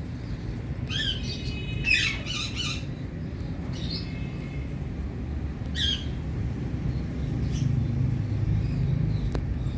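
Indian parrot giving short, pitched calls: one about a second in, a quick cluster around two seconds, single calls near four and six seconds, and fainter ones later. A steady low hum runs underneath.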